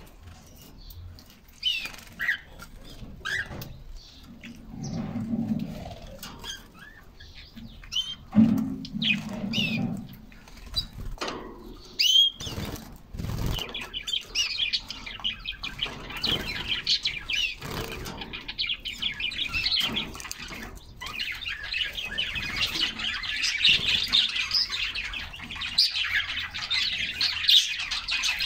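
Pet canaries chirping, with two bursts of wing-flapping splashes in their bath in the first half. From about halfway, a canary sings a long, rapid warbling song that grows louder toward the end.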